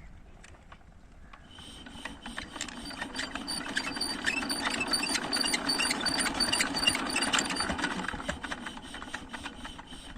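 Old Petter diesel engine running with a rapid, even knock, growing louder over the first few seconds and fading again near the end.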